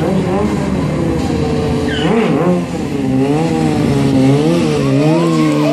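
Sportbike engine revving up and down, its pitch rising and falling in waves, with a sharp drop and quick climb about two seconds in.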